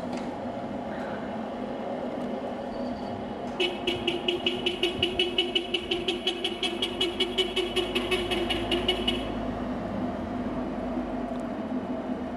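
Car horn sounded in a rapid run of short beeps, about six a second, for some five seconds starting about three and a half seconds in, over a steady low hum.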